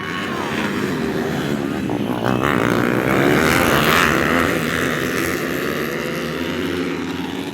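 A pack of Trail 155 class trail motorcycles revving hard and accelerating together at the race start. The many engines overlap, swell to a peak about halfway through, then fade as the bikes pull away.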